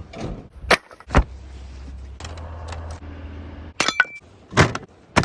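A series of sharp knocks and clinks, about six in all, with several close together near the four-second mark, over a low steady hum.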